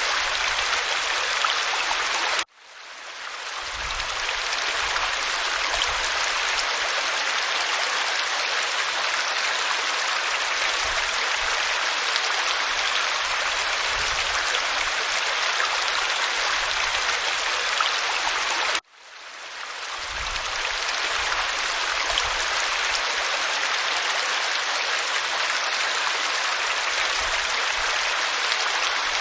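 Waterfall pouring over rock: a steady, full rush of falling water. The sound cuts out suddenly twice, about two seconds in and again about two-thirds of the way through, fading back up over a second or two each time.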